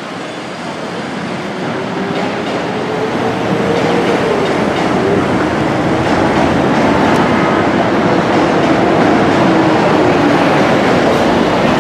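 Chicago 'L' rapid-transit train running close by, its rumble growing louder over the first few seconds and then holding steady. A whine rises and then falls in pitch over the noise, and the sound cuts off abruptly at the end.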